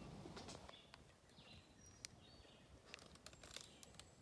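Near silence outdoors in the woods: faint, short bird chirps repeating in the background, with a few soft clicks and crinkles.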